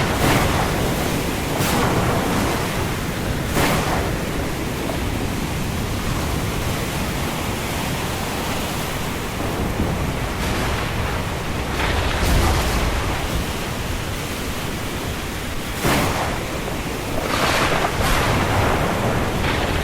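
Thunderstorm and windstorm ambience: a steady rush of rain and wind, with gusts swelling briefly several times and a low rumble of thunder about twelve seconds in.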